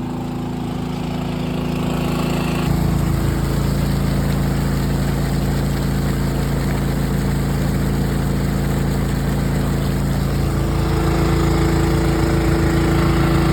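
Small gasoline engine of a portable water pump running steadily, pumping the water out of a sunken sailboat. The engine note grows louder and changes about three seconds in.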